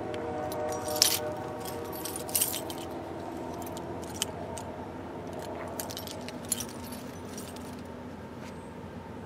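The last of a locomotive horn note dies away in the first second, leaving the low steady rumble of a distant approaching freight train. Over it come irregular light metallic clicks and jingles close to the microphone, the sharpest about a second in.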